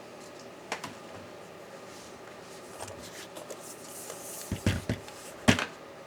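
Laptop parts and small tools being handled on a work surface: a few light clicks, a brief scrape a little past halfway, then a cluster of knocks near the end, the loudest just before it stops.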